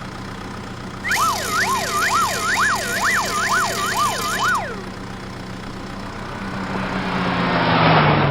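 Cartoon vehicle sound effects: a low steady engine hum, with an emergency siren wailing up and down from about a second in for some three and a half seconds. A whooshing swell then builds to a peak near the end as the hum drops in pitch.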